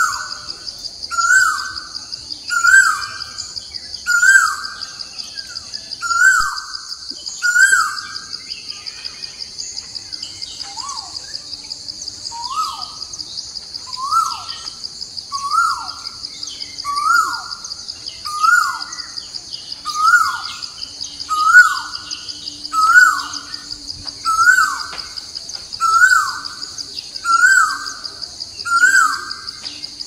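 A bird calling over and over, each call a short note that drops in pitch, about every second and a half, pausing for a few seconds about a third of the way in. Beneath it runs a steady high insect drone.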